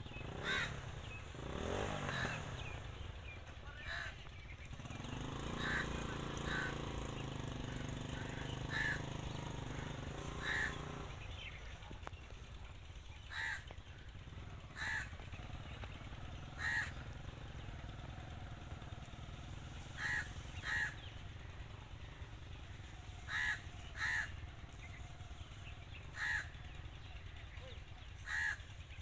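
Short harsh bird calls, about sixteen of them, often in pairs, every one to three seconds. A motor engine passes between about five and eleven seconds in, its pitch bending.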